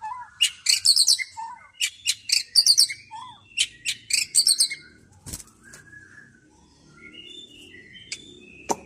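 White-rumped shama singing: rapid bursts of loud, very high, harsh notes for about five seconds, then softer, scattered whistled notes.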